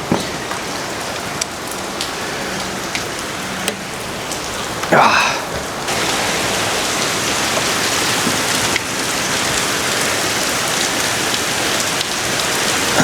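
Steady rain falling, heard from inside a shed; it gets louder about six seconds in. A few light clicks, and about five seconds in a brief high-pitched sound rising in pitch.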